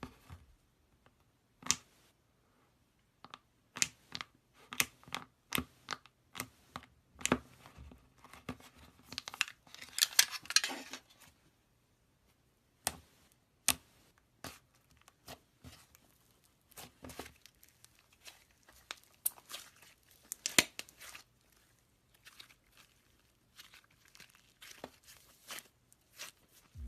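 Slime being squeezed and pressed by hand, giving irregular sharp pops and clicks, with a busier run of crackling about ten seconds in.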